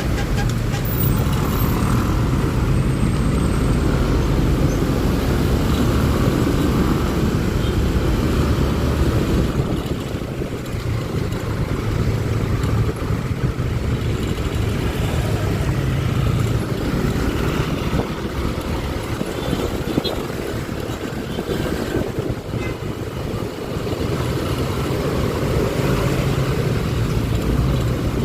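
Honda Click 125i scooter running steadily while being ridden in city traffic, with road and traffic noise around it.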